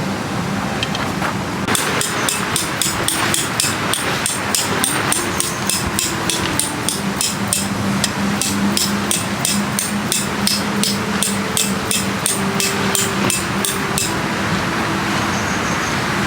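Hammer driving a tent peg: a steady run of sharp metallic strikes, about three a second, for some twelve seconds, then stopping. A steady low hum runs underneath.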